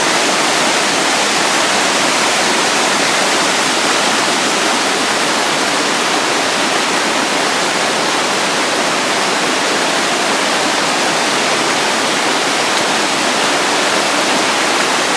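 Waterfall rushing, a loud steady roar of falling water with no let-up.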